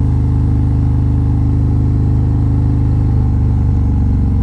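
Harley-Davidson touring motorcycle's V-twin engine running steadily under way at cruising speed, a continuous low rumble.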